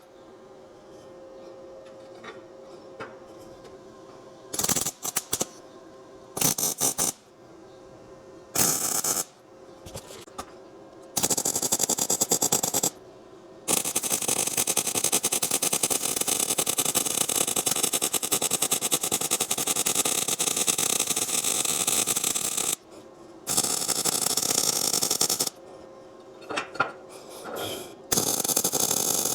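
Electric welding arc crackling on steel angle iron. It starts as a few short tack welds, then runs as a longer bead for about nine seconds in the middle, with more short runs near the end. A faint steady hum runs between the welds.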